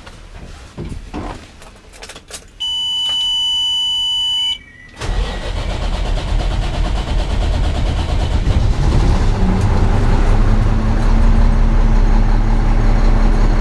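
A steady high warning tone sounds for about two seconds, then a 2002 Mack E-Tech inline-six diesel cranks for several seconds before it catches and settles into a steady run. The long crank is a hard-start fault, which a later fault-code scan ties to an intermittent engine position sensor signal and a broken cam position sensor connector.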